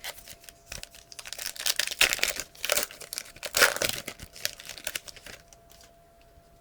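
Plastic wrapper of a trading-card pack crinkling and tearing as it is opened by hand, with dense crackling that is loudest about two and three and a half seconds in and dies away near the end.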